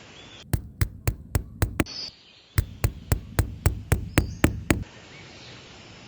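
Sharp, evenly paced knocks, about three to four a second, in two runs with a short pause between them.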